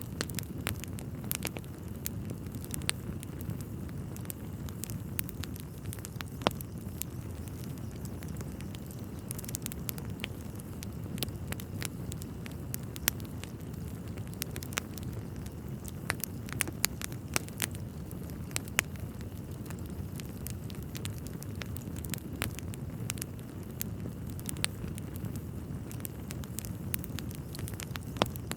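Wood fire burning in a fireplace: a steady low rumble of flames with frequent, irregular crackles and sharper pops from the burning logs.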